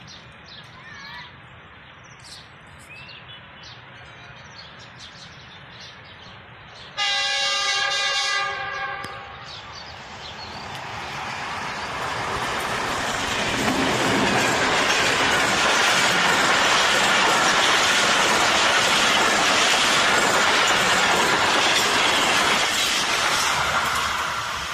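GEU-20 diesel-electric locomotive sounds a single horn blast of about two seconds, then the express train approaches and runs past close by, the engine and wheel-on-rail noise growing loud and holding as the coaches go by, easing slightly near the end.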